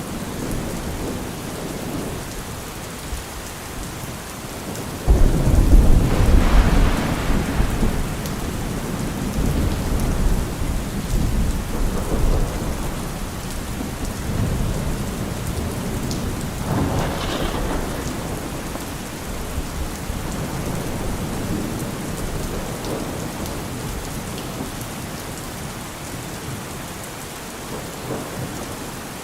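Steady rain with thunder: a sudden loud clap about five seconds in that rumbles on for a few seconds and dies away, and a further rumble later, over the even hiss of the rain.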